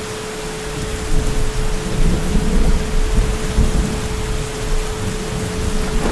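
Heavy rain falling steadily, with a low, deep rumble of thunder that builds about a second in and rolls on for several seconds. A steady tone sits under the rain throughout.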